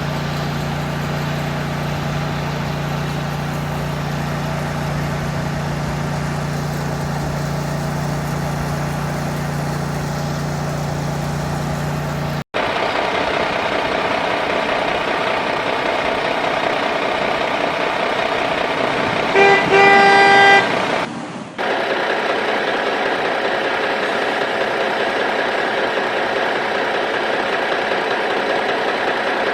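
A vehicle engine running steadily, then after a sudden cut another vehicle engine running, with a horn sounding once for about a second partway through.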